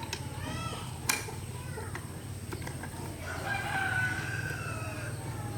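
A rooster crowing once, a call of about two seconds starting a little past halfway. Under it runs a steady low hum, and there is a sharp click about a second in.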